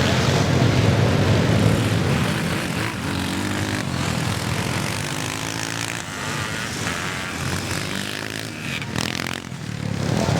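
Classic motocross motorcycles racing on a dirt track, their engines revving hard, with the engine notes rising and falling in pitch. It grows a little quieter near the end.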